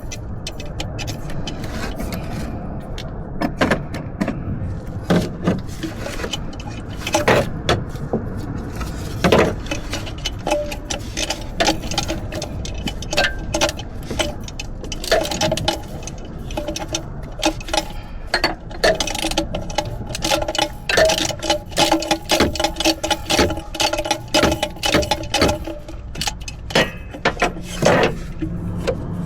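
Hand ratchet clicking in quick runs with metal tool clinks, turning the screws that hold a new thermostat housing.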